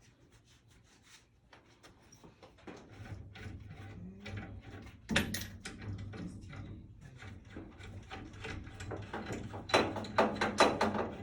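Clicks, knocks and clatter of parts and tools being handled during a furnace installation, building up about three seconds in, with louder knocks about five seconds in and near the end. A low steady hum runs beneath them from about three seconds in.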